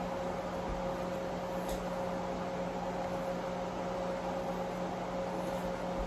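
Steady machine hum with one faint steady tone above it, unchanging throughout.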